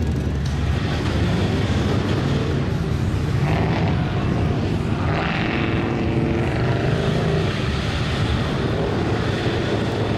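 Mud-truck engines running steadily, with a low engine drone throughout and some changes in pitch in the middle.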